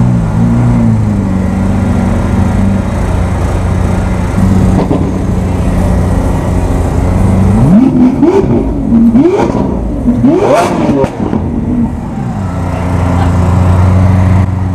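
Lamborghini Aventador's V12 idling with a steady drone. About halfway through it is blipped several times in quick succession, each rev rising and falling, the loudest coming near the end of the run, before it settles back to idle.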